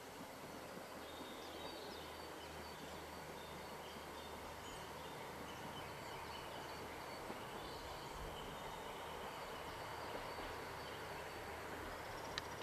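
Faint outdoor ambience: a steady low hiss with wild birds calling softly in short high chirps. There is a single sharp click near the end.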